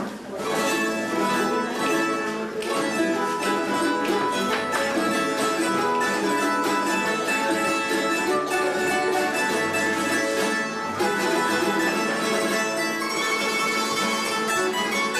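Bandurria, laúd and guitar playing a Cádiz carnival tango together, with fast plucked notes over a strummed guitar accompaniment.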